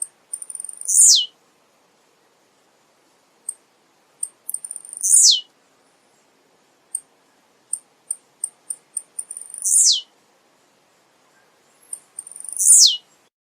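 Male blue-black grassquit (tiziu) singing: four short songs about every four seconds, each a quick stutter of high clicks running into one sharp, buzzy note that falls steeply in pitch. Single short high ticks come between the songs.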